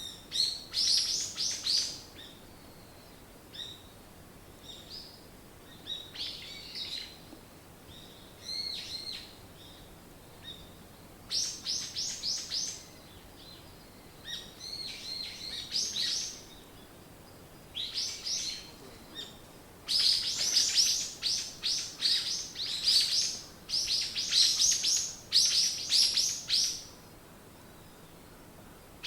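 Songbirds chirping in quick phrases of rapid high chirps, separated by short pauses, with the busiest and loudest stretch of chirping about two-thirds of the way in.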